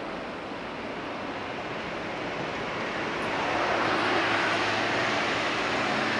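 Electric train running out of sight, a steady rushing noise that swells about three seconds in, with a low hum that sets in at the same time.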